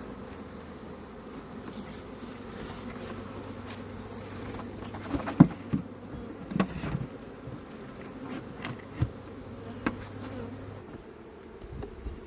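A honeybee swarm buzzing steadily, with a few sharp knocks in the middle.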